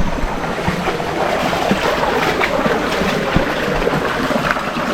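Shallow stream water splashing and sloshing around bare feet wading through it, with many small irregular splashes over a steady rush.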